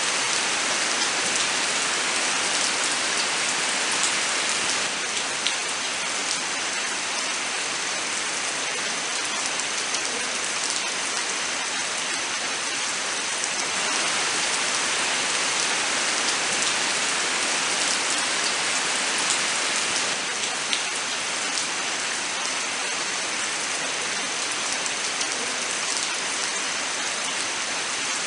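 Steady rain falling: an even, dense hiss with many small drop ticks scattered through it.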